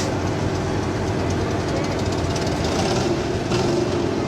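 Several demolition derby mini vans and mini trucks with their engines running, a loud, steady mechanical drone, with a few short sharp clicks or knocks.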